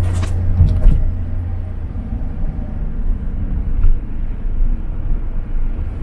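Steady low engine and road rumble inside a moving car, with a few brief rustles in the first second.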